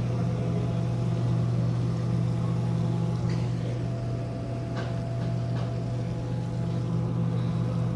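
Steady low hum of a cruise ship's machinery while it docks, with a few faint clicks in the middle.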